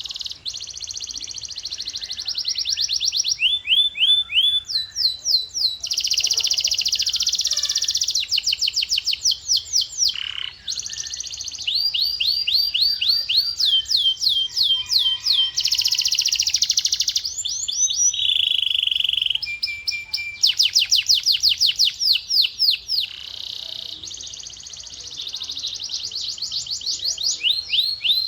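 Domestic canary singing: a continuous song of fast trills and rolls of rapidly repeated sweeping notes, switching to a new tour every second or two, with buzzing stretches between them.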